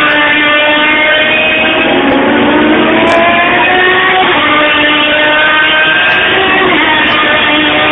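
Racing engines running hard at the track, their pitch rising and falling several times as vehicles accelerate, shift and pass.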